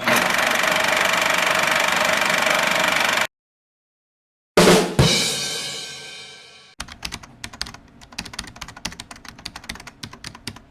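Edited intro sound effects. About three seconds of loud, steady noise cuts off abruptly. After a short silence comes a struck hit whose ringing tones die away over a couple of seconds, then a rapid run of clicks like keyboard typing.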